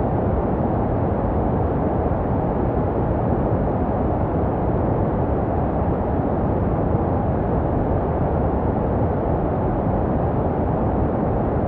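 Steady white noise for soothing a baby to sleep, deep and muffled, with most of its energy low and little hiss on top, unchanging throughout. It is made to resemble the sound a baby hears inside the womb.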